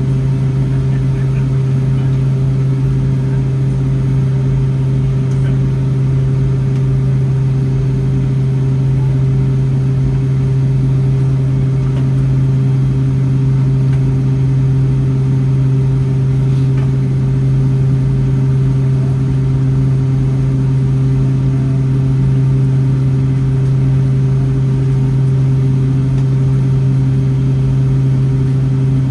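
Steady cabin drone of a Boeing 757-300 on the ground before takeoff: twin engines at idle with the air-conditioning hum, heard from a window seat inside the cabin. A constant low hum and some higher steady tones hold level, with no spool-up.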